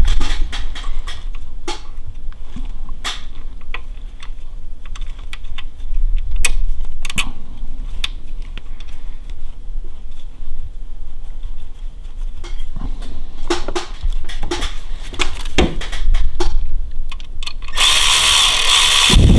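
Scattered metal clicks, clinks and knocks of hand tools and engine parts being handled during reassembly of an engine's front end. Near the end a loud steady rushing noise starts.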